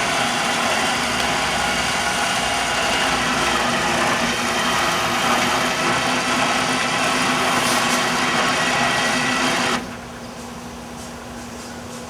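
Winch of a Rampage motorcycle lift running steadily as it hauls the motorcycle up into the pickup bed, then stopping suddenly about ten seconds in, leaving a faint steady hum.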